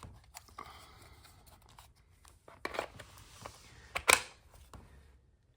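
Plastic handling noises as a battery pack is slid into the cordless pole saw's handle: a short scrape about two and a half seconds in, then a sharp click about four seconds in as the battery latches.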